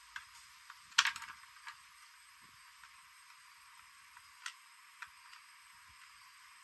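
Small hard clicks and clinks of metal parts or hand tools being handled, with a quick cluster of sharp clinks about a second in and a few single ticks after.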